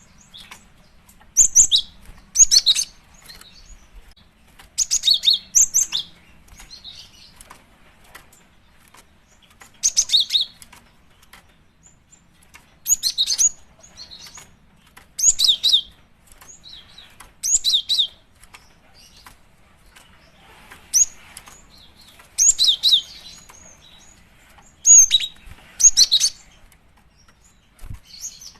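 Female cinereous tit (gelatik batu) calling: short clusters of high chirping notes, repeating every two to three seconds. This is the female's call to a male, used as a lure call.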